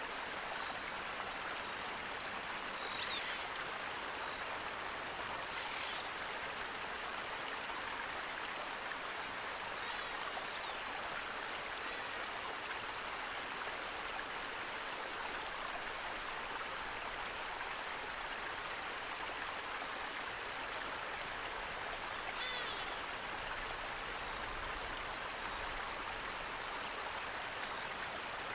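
Steady rush of running water from a stream, with a few faint short bird chirps about 3, 6, 10 and 22 seconds in.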